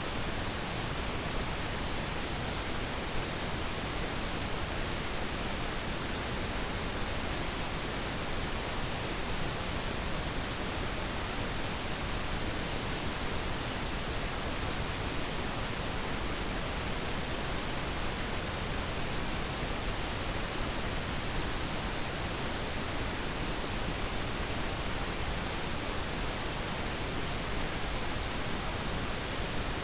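Pink noise: a steady, even hiss with no change or events.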